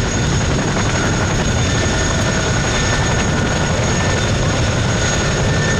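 Modified Boeing Stearman biplanes' 450 hp radial engines and propellers running steadily in flight.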